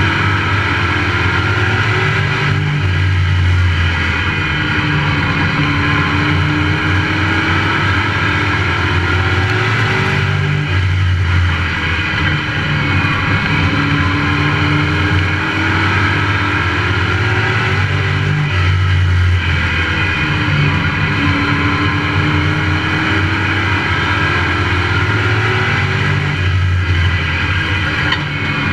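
Pro Truck race truck's engine heard onboard at racing speed, its note climbing as it accelerates and then dropping, in a cycle that repeats about every eight seconds as the truck laps a short oval track.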